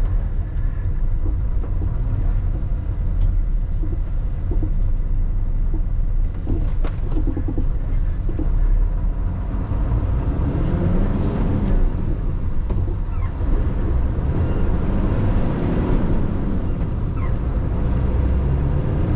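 A 2003 Mitsubishi Fighter dump truck's 7.5-litre common-rail diesel pulling the truck along under a heavy load, a deep steady drone with the engine note rising and falling a few times as it accelerates.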